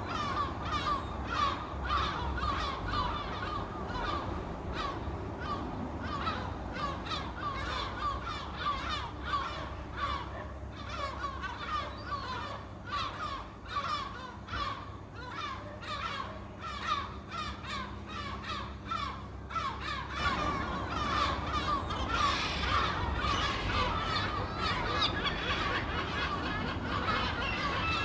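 A flock of seagulls calling: many short, overlapping squawks. The calling grows denser and louder about two-thirds of the way through.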